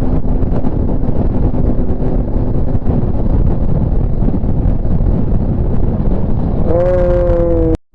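Heavy wind buffeting on the microphone over vehicle noise, as from a motorcycle riding at speed. A held, pitched tone comes in near the end and sinks slightly before everything cuts off abruptly.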